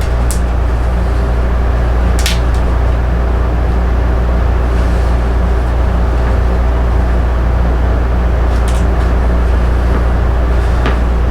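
Steady, loud low hum of a motor or electrical machine with even overtones, and four brief scraping clicks, the first near the start, one about two seconds in and two near the end.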